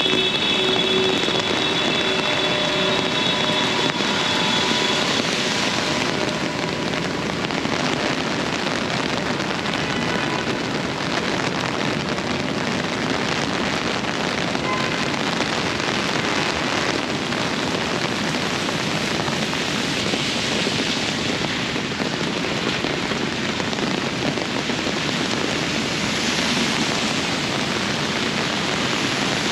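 Steady rain and passing traffic on a city street, a constant wash of noise. A whine of several steady tones fades out in the first few seconds.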